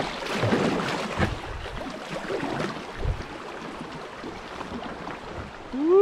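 River water rushing and splashing around a kayak on the move. It is loudest in the first second or so and then eases off, with a single low thump about three seconds in.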